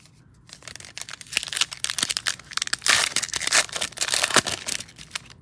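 Foil wrapper of a trading-card pack crinkling and tearing as it is ripped open, a dense crackle that starts about half a second in.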